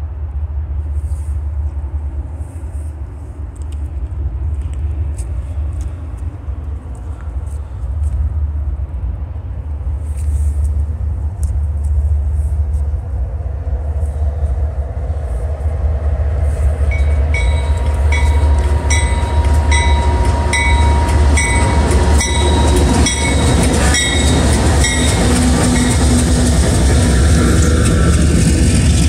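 Diesel freight locomotives running, led by a Canadian Pacific GE ES44AC, growing steadily louder as the train approaches and draws close. For several seconds past the middle a regular ringing sounds, about one and a half strokes a second.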